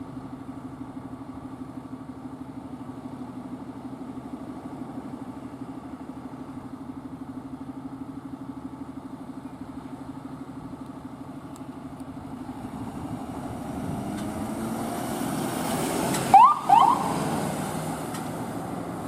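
A steady low engine hum, then an emergency vehicle drawing closer and passing, louder over several seconds. Near the peak it gives two short rising siren blips in quick succession.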